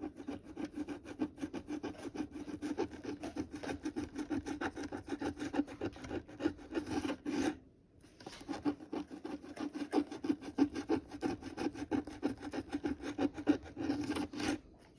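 A scratch-off lottery ticket's coating being scratched off with quick, repeated back-and-forth strokes. The strokes pause briefly about halfway through.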